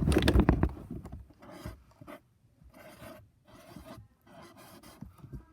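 Writing by hand on a surface: several short, scratchy strokes with brief pauses between, as the word "food" is written on.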